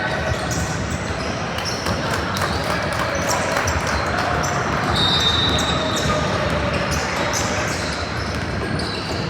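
Ball bouncing on a hardwood gym floor during a game, with many short knocks over the steady chatter of spectators. There are a few short high squeaks, the clearest about halfway through.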